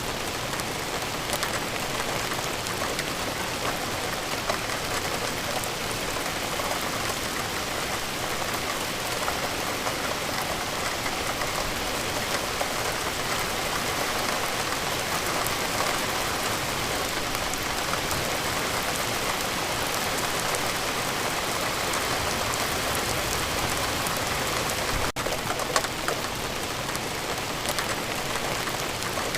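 Steady rain falling on a surface, a dense even patter with scattered individual drop ticks. There is a split-second gap about three quarters of the way through.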